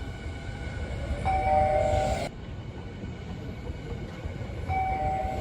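Electric commuter train at a station platform: a steady low rumble, with a held horn-like tone about a second in that cuts off abruptly, and the same tone starting again near the end.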